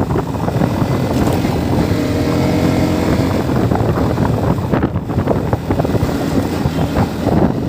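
Motorcycle running on the road with heavy wind buffeting the microphone. A steadier engine tone comes through from about two to four and a half seconds in.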